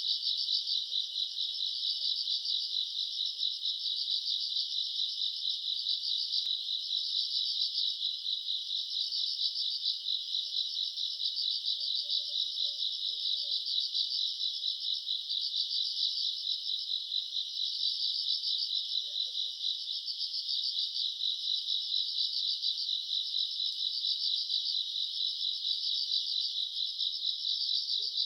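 Summer-night chorus of grass insects (crickets and their kin) chirping continuously in dense, fast-pulsing, high-pitched trills.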